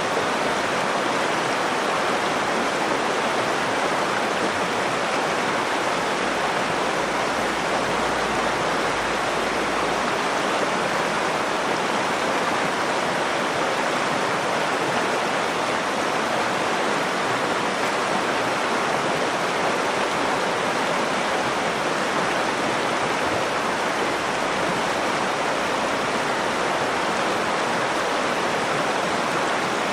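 Nakdong River water flowing, a steady, even rushing that does not change.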